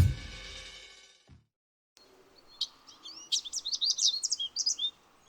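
Music fading out over the first second, then after a brief silence small birds chirping: a busy run of quick, high, upswept chirps.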